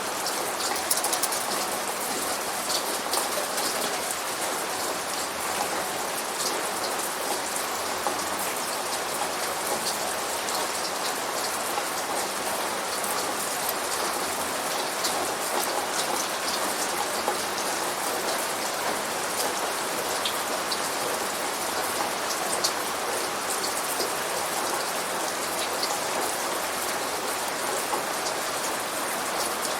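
Steady rain falling, with many small sharp drop ticks over an even hiss.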